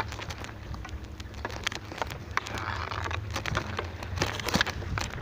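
Rattling and knocking of a camera mounted on a moving bicycle, many small clicks over a steady low rumble of the ride. A short hiss rises and fades about two and a half seconds in.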